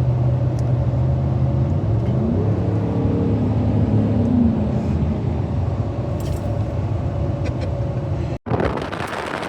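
A car engine running with road noise. About two seconds in, one engine's pitch climbs, then falls away at about four and a half seconds, as a vehicle accelerates and shifts. Near the end the sound cuts abruptly to a windier, noisier roar.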